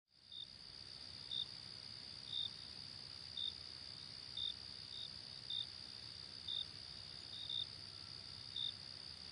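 Crickets chirping: a steady high trill with a sharper chirp repeating about once a second, a few of them in quick pairs.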